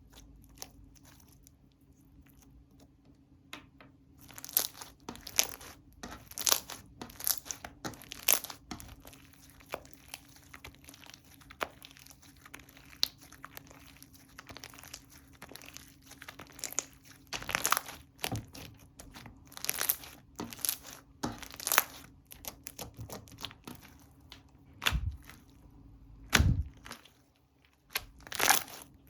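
Slime being stretched, pressed and squished by hand, giving irregular sticky crackles and tearing sounds. A few louder, deeper thuds come near the end.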